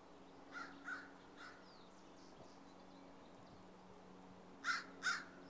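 A bird calling in short separate calls: three fainter ones in the first second and a half, then two loud calls near the end. A faint steady low hum runs underneath.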